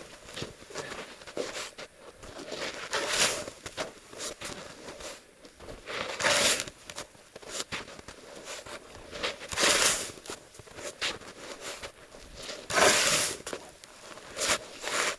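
Snow shovel scooping and scraping through deep snow in repeated strokes, the loudest about every three seconds, with smaller crunches of snow between.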